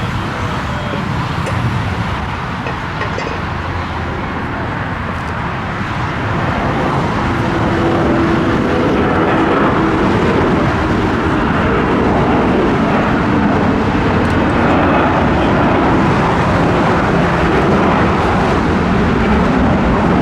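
Airbus A340-300 jet engines, a steady rushing roar that grows louder about seven seconds in.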